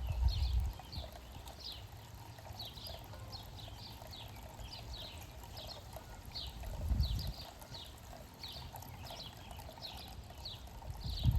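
Small birds chirping in a steady run of short, high, down-slurred notes, two or three a second. Brief low rumbles come at the start and again about seven seconds in.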